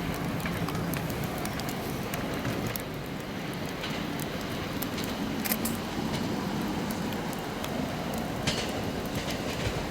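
Train running past on the line: a steady rumble of wheels on rail with scattered sharp clicks.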